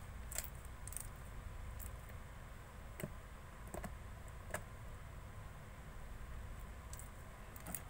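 Slime being squished and stretched by hand, giving a handful of sharp clicks and pops at irregular intervals, with quieter stretches between them.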